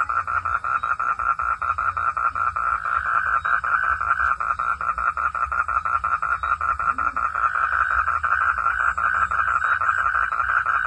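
A night chorus of frogs calling in a fast, steady pulsed trill that never lets up, with a low rumble underneath.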